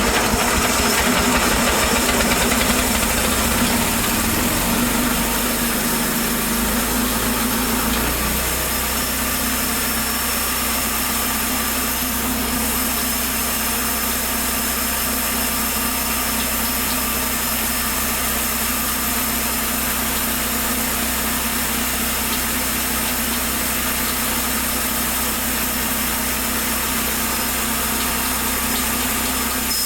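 Petrol engine of a band sawmill running steadily at idle, its note shifting slightly and settling about eight seconds in.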